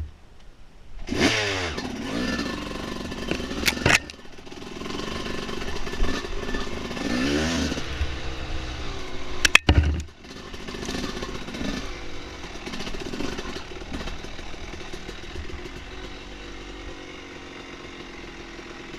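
Dirt bike engine revving up and down while riding: the pitch climbs sharply about a second in and again about halfway through, the sound cuts out briefly just after that, then it runs more steadily and slowly eases off.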